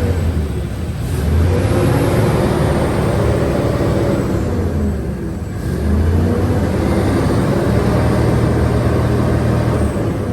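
Fuso Super Great's 6M70 diesel truck engine being revved, the revs dropping back and climbing again twice. It runs smoothly, a sign the engine is still in good condition.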